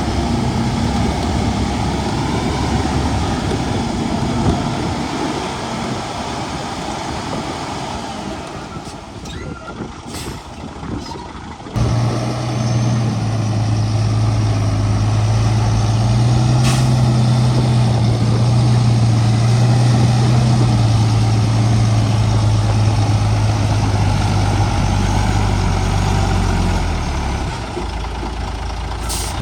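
Heavy diesel engines of earthmoving machinery running. About twelve seconds in, a louder engine suddenly comes in with a steady low hum that holds until near the end.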